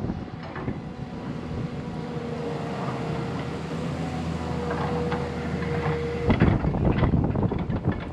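Heavy earthmoving machine's diesel engine running steadily with a steady whine. A little past six seconds a louder, rough rush of noise with sharp knocks breaks in.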